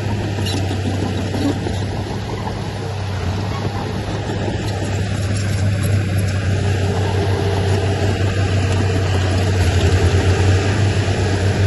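Heavy diesel engine of earthmoving machinery running steadily with a deep hum, growing louder over the last few seconds.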